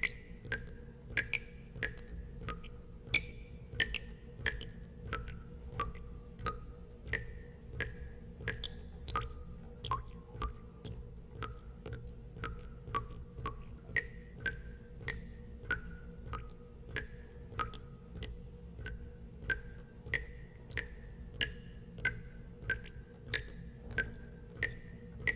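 Water drops falling into water in a steady series of plinks, about two a second, each a short ringing note at a slightly different pitch, over a low steady hum.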